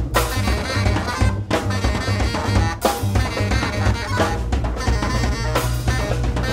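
Live jazz trio of saxophone, drum kit and bass playing together in a dense, loud passage, with a couple of very brief breaks in the sound.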